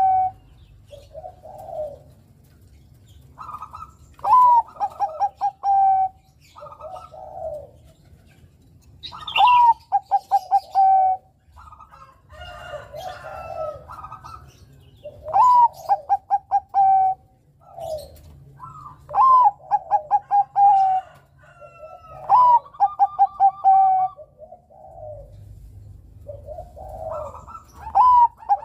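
Zebra dove (Bangkok-type perkutut) singing its cooing song. It repeats phrases every few seconds, each a rising first note followed by a quick run of short, even coos, with softer lower coos in between.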